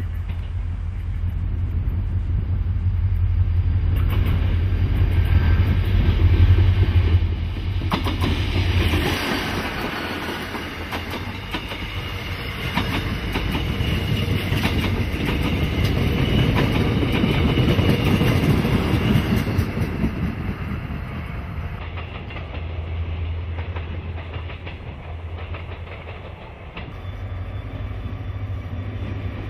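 Korail 7500-class diesel-electric locomotive passing close with a deep engine drone, loudest about six or seven seconds in, followed by its passenger cars clattering over the rail joints. Near the end another train's low engine drone comes up.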